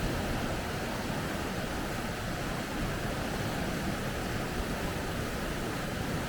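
Water rushing over rapids: a steady, unbroken rush of noise.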